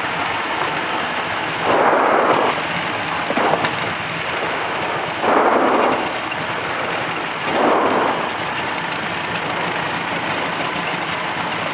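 Steady cockpit noise of a Cessna 210D heard through the headset or intercom feed: engine, propeller and airflow as an even rushing hiss. Three brief louder swells of the same noise come about two, five and a half, and eight seconds in.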